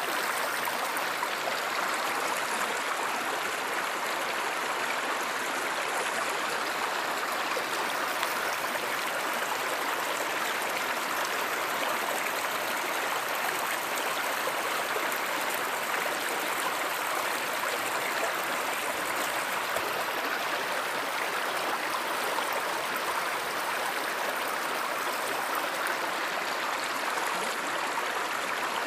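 Stream water running and babbling, a steady even rush with no let-up.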